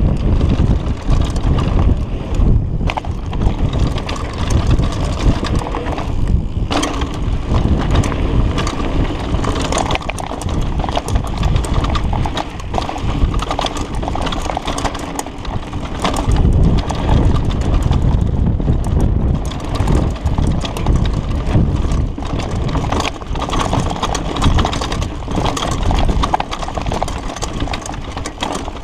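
Mountain bike descending a rough dirt downhill trail: tyres running over dirt and rocks and the bike rattling with many quick knocks over the bumps, under heavy wind noise on the microphone.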